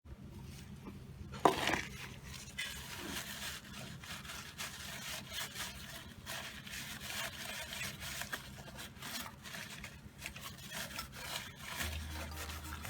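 Irregular rubbing and scraping with scattered small clicks, and one sharp knock about a second and a half in, over a faint steady low hum.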